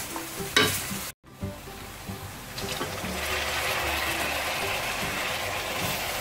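Onions, shallots and coconut bits frying in oil in a kadai, with a wooden spoon scraping through them. After a brief break about a second in, a steady sizzle builds as chopped tomato goes into the hot oil.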